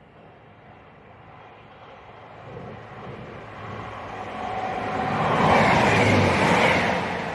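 A train approaching and passing close by on the main line, its sound building steadily to a peak about five and a half seconds in and easing slightly near the end.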